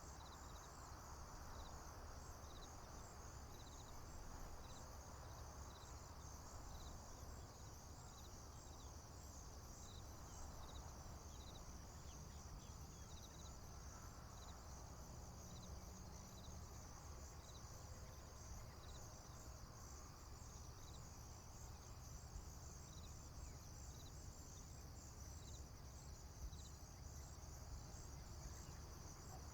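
Crickets and other insects calling: a steady high, pulsing trill with a shorter chirp repeating about once a second, over a faint low rumble.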